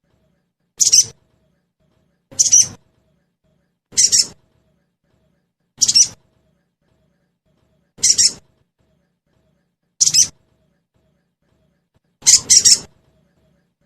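Recorded sogon bird calls: short, high, chirping calls repeated every one and a half to two seconds, with a quick double call near the end.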